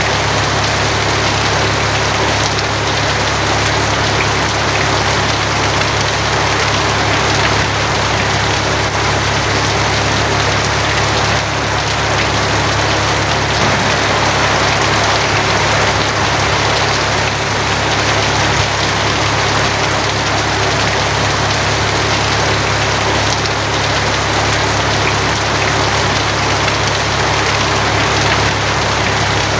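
Steady, heavy rain falling on a tin roof: a dense, even patter with no single drops or breaks standing out, and a steady low rumble underneath.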